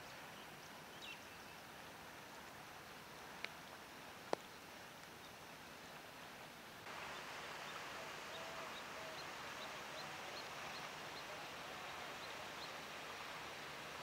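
Faint outdoor ambience with a steady hiss and a few sharp clicks in the first half. After a cut a little before the midpoint, a bird gives short high chirps about twice a second, with some fainter lower notes.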